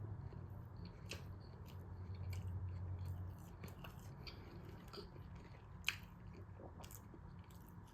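Close-up chewing of a McDonald's Chicken Big Mac, a soft breaded-chicken sandwich, with scattered small mouth clicks and one sharper click about six seconds in. A low hum sits under the first three seconds.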